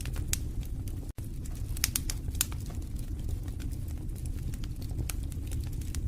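Wood fire burning in a fireplace, crackling with irregular sharp pops over a steady low rumble. The sound cuts out for an instant about a second in.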